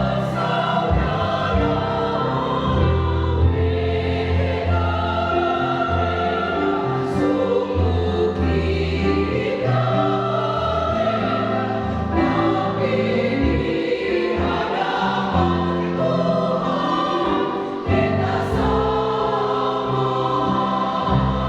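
Church choir singing a praise song in several voice parts, with sustained chords throughout.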